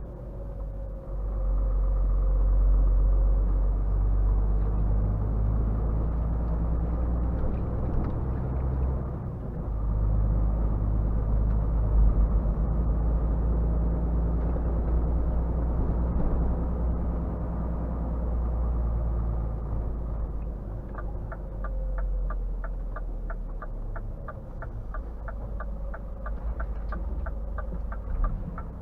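Scania R450 lorry's diesel engine running under way, a steady low rumble heard from the cab that swells about a second in. About two-thirds of the way through, the turn-signal indicator starts ticking evenly, about three clicks a second.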